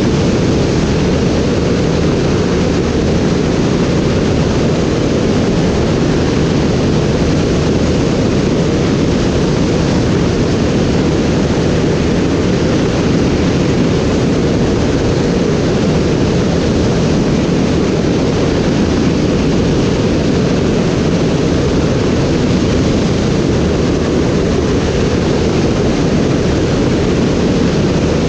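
Steady, deep rushing noise of an aircraft in flight, even and unchanging, with no distinct engine tones.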